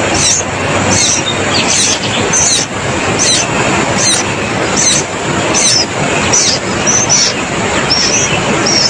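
A bird repeating short, high, downward-sliding chirps at a steady pace, about three every two seconds, over a loud, steady rushing noise.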